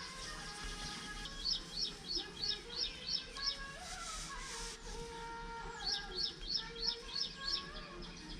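A bird calling: two runs of about seven quick, high, repeated notes, roughly three a second, with a pause of a couple of seconds between them.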